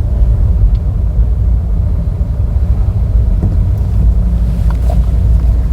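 A car driving slowly, with a steady low rumble.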